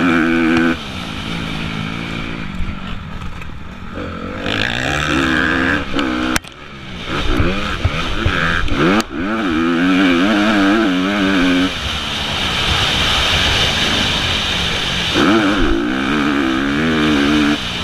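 Honda CRF250 motocross bike's four-stroke single-cylinder engine, heard from an onboard camera, revving up and dropping back again and again as the throttle is opened and rolled off, over a steady rush of wind. Two sharp knocks cut through, about six and nine seconds in.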